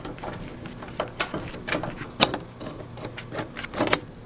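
Irregular clicks and knocks of hand work on a 1975 Ford F-100 door as a fastened trim piece is worked loose. The loudest knock comes about two seconds in, with a cluster of sharper clicks near the end.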